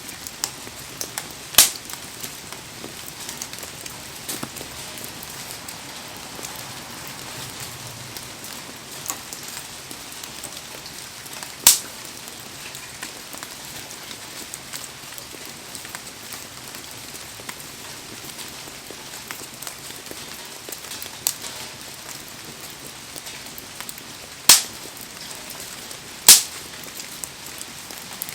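Heavy rain falling in a steady hiss over a wood campfire. The fire gives a handful of sharp pops spread through the rain.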